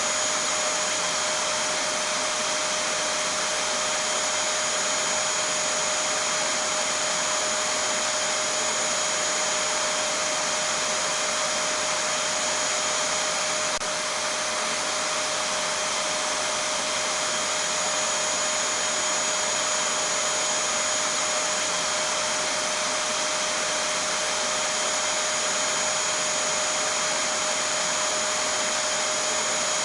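Vacuum cleaner running steadily: an even, unchanging rush of air with a steady whine on top.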